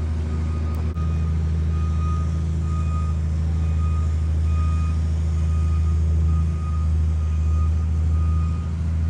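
A heavy machine's engine running steadily with a loud low hum, while a backup alarm beeps over and over, the beeping of recovery equipment reversing.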